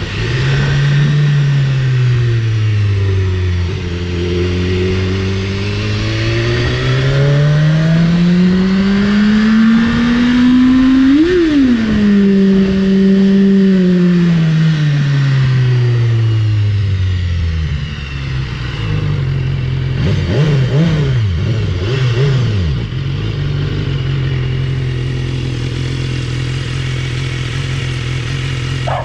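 BMW S1000RR's inline-four engine under way. Its note falls at first, then climbs steadily as the bike accelerates to a sharp peak about eleven seconds in. After that it drops back and winds down to a steady low note for the second half.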